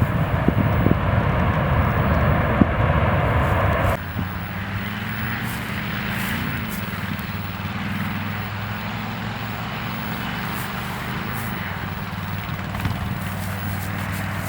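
Airliner engines running, with wind thumping on the microphone for the first few seconds; about four seconds in the sound cuts abruptly to a quieter, steady engine drone with a low hum.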